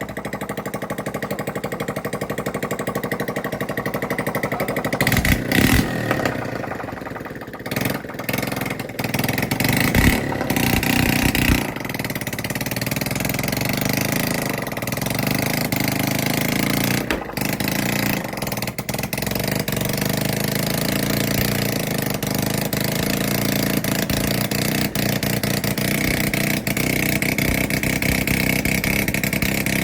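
Stationary flour-mill diesel engine running, uneven with several louder surges over the first ten seconds or so, then settling into a steady run.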